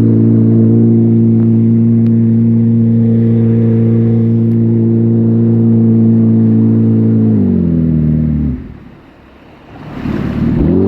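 Watercraft engine running at a steady speed. About seven seconds in it throttles down, its pitch falling and the sound dropping away. Near the end it revs back up with a rising pitch and a rush of noise.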